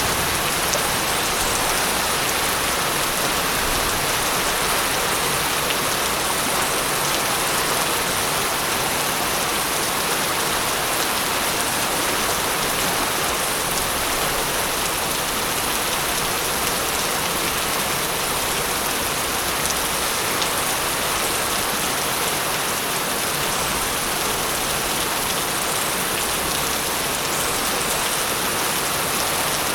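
Steady heavy rain falling on a hard surface, a dense even hiss of drops with no thunder heard.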